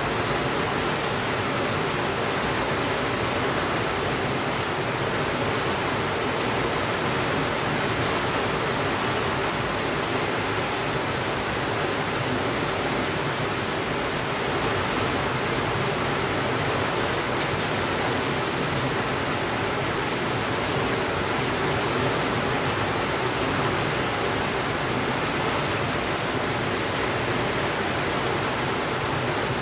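Steady rainfall, an even hiss that does not let up, with a few faint ticks here and there.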